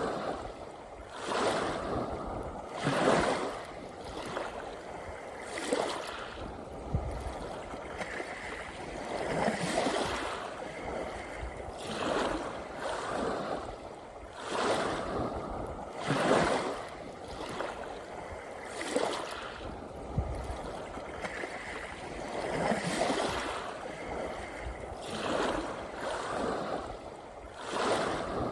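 Small sea waves washing onto the shore, one surge of rushing water every two to three seconds, each swelling and falling away.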